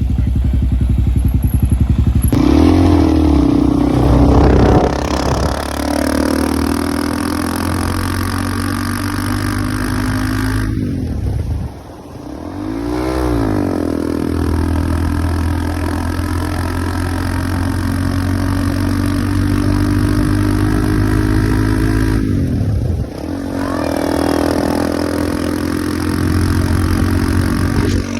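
Motorcycle engine running under throttle, its pitch rising and then holding steady. Twice, about twelve and twenty-three seconds in, the sound drops off briefly before the engine note climbs again.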